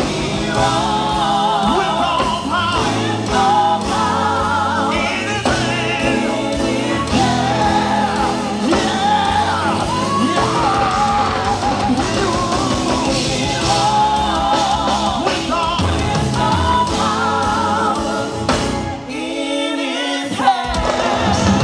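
Gospel quartet singing live with a full band backing them. The bass drops out for a moment near the end while the voices carry on.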